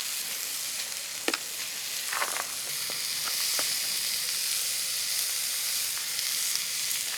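Food frying in a very hot pan, sizzling steadily, with a sharp click about a second in and a few light ticks after it.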